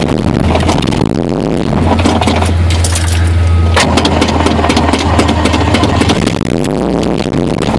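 Ford 302 small-block V8 being cranked over by its starter during a cold start at −12 on choke, with the gas pedal being pumped. The owner says the starter needs replacing. The steady cranking drone eases off about six seconds in.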